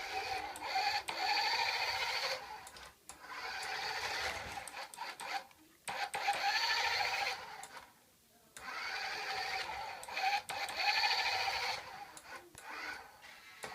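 Electric motor of a toy RC Ferrari Formula 1 car whining in bursts of a second or two as the throttle is worked, stopping and starting about five times.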